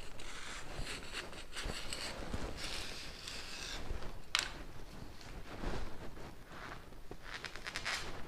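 Rustling and scraping as pieces of fire-proof cotton are handled and pressed into a copper pot to build up a furnace lining, with a sharp click about four seconds in.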